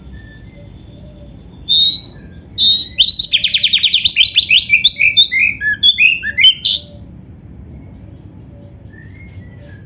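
Oriental magpie-robin (kacer) singing a loud phrase: first a fast rattling run of repeated high notes, then a string of varied whistled and sliding notes. The phrase stops about two-thirds of the way in, leaving only a few faint notes.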